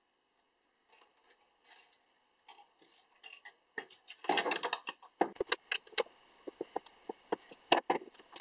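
Copper wire being unwound from a toroidal coil and worked with combination pliers: a run of small, sharp metallic clicks and clinks. They are faint at first and become louder and more frequent from about four seconds in.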